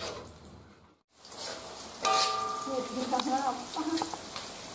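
Sliced onions sizzling in hot oil in a wok as they are stir-fried. The sizzle starts after a brief drop to silence about a second in and jumps louder about two seconds in.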